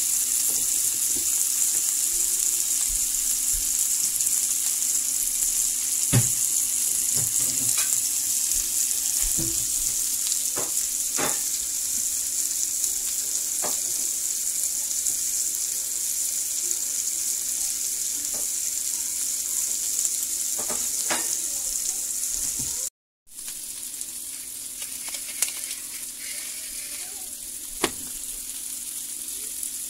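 Lamb chops and diced potatoes sizzling steadily in a hot skillet, with scattered sharp pops of spitting fat. The sound cuts out for a moment about two-thirds of the way through.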